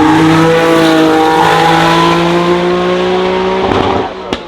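Porsche 930 TAG Turbo's 1.5-litre TAG turbo V6 pulling hard under acceleration, its note rising slowly and steadily in pitch. Near the end the note drops away as the driver lifts off, followed by a single sharp click.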